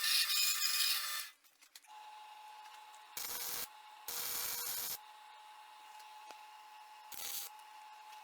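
A saw cutting through a wooden handle block, stopping about a second in. A faint steady hum follows, with three short scraping bursts.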